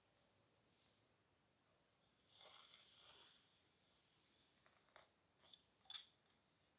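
Faint soft rustle of hair being stroked, lasting about a second from two seconds in, followed by a few small clicks near the end.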